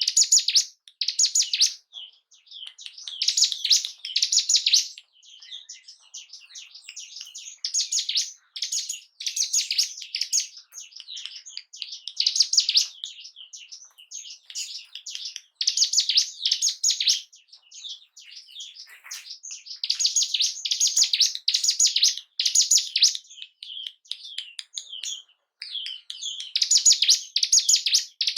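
Ciblek gunung, a mountain prinia, singing in repeated fast chattering phrases of high chirps, with short gaps between phrases. This is the song used as a lure to rouse a kept bird's breeding drive and aggression.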